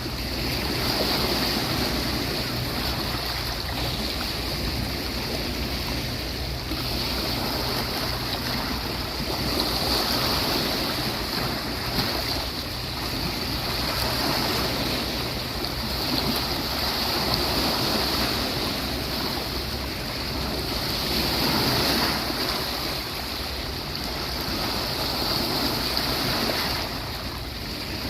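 Ocean waves breaking and washing onto a beach: a continuous surf noise that swells and eases every three to five seconds as each wave comes in.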